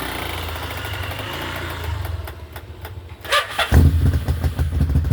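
Yamaha VMAX 1200's V4 engine cranking on the electric starter for about three seconds on a cold start, then catching near the end and running loud with an even, pulsing beat.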